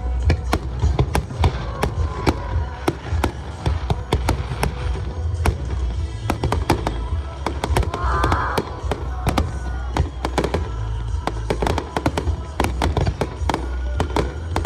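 Fireworks going off in rapid succession, many sharp bangs and crackles, over show music with heavy bass.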